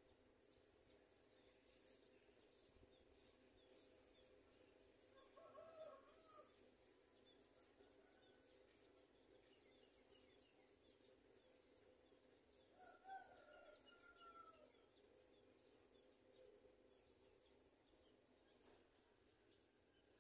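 Faint bird calls: a few short, high chirps, and two longer, lower calls that bend in pitch, about six and thirteen seconds in.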